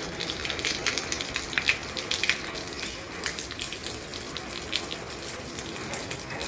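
Heavy rain falling on an old roof: a steady rushing hiss with many sharp individual drop taps scattered through it.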